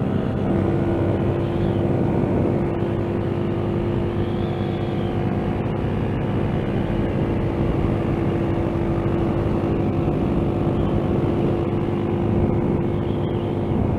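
Motorcycle engine running at a steady cruising speed, with heavy wind rush over the rider's helmet microphone.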